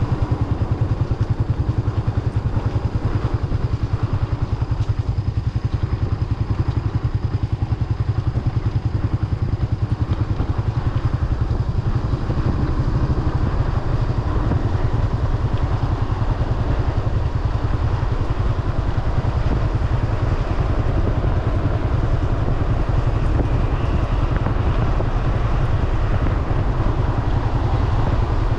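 Kawasaki W175's single-cylinder engine running steadily while the motorcycle is ridden, with a fast, even low pulsing from the exhaust.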